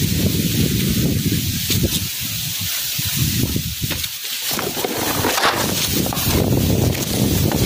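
Strong wind buffeting the microphone in gusts, with a hiss of wind through leaves.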